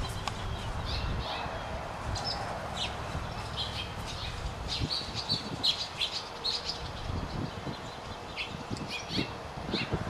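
Small birds chirping in many short, high calls. Beneath them, soft low thuds of a horse's hooves on dirt arena footing, clearest in the second half.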